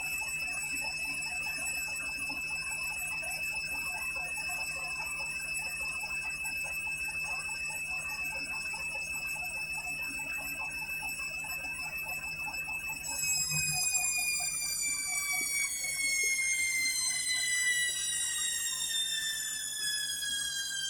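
Candy washing machine on its 400 rpm final spin: the motor and drum whine holds at a steady high pitch, then falls steadily in pitch from a little past halfway as the drum spins down.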